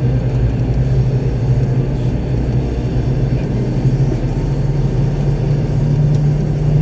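Diesel engine of a concrete mixer truck running on the road, heard from inside the cab as a steady low drone, its pitch rising slightly near the end.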